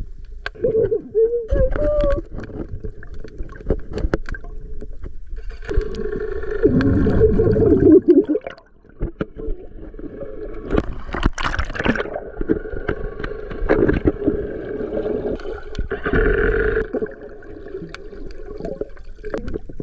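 Water sloshing and gurgling close to the microphone, with scattered sharp knocks and clicks and louder splashy swells now and then.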